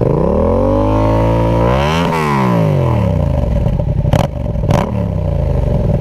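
Yamaha MT-07's parallel-twin engine revved through an SC Project Conic 2-in-1 exhaust with the baffle in. It climbs from idle, holds, then sweeps sharply up to a peak about two seconds in and drops back to idle, followed by two short sharp noises a little after four seconds.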